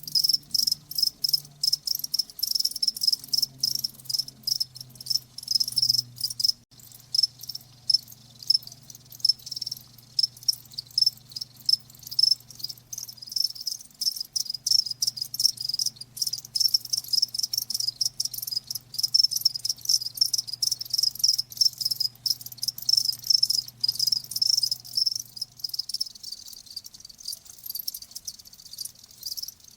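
Crickets chirping, a dense run of quick high-pitched pulses that goes on without a break.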